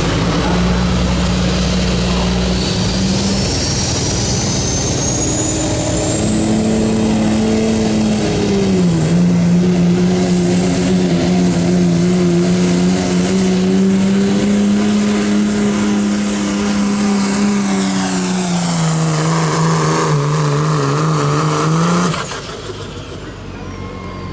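Turbo-diesel pickup truck engine at full throttle pulling a weight-transfer sled, with a high turbo whine that climbs over the first several seconds and then holds. The engine pitch drops a step about nine seconds in and holds under load. The engine lets off near the end and the sound falls away sharply.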